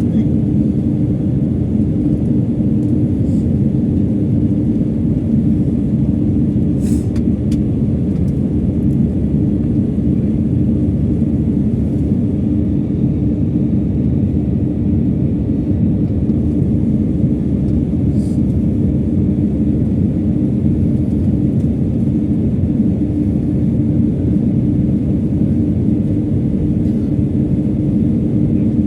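Steady cabin noise inside a jet airliner: the engines and airflow make a loud, even rumble with a steady hum underneath. Two faint clicks come through, about seven and eighteen seconds in.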